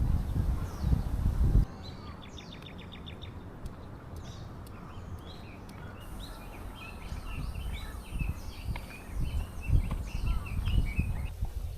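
Small birds chirping in short, quick high calls, thickest in the second half, with a brief rapid run of ticking notes about two seconds in. Low rumbling thumps come and go underneath, loudest at the very start.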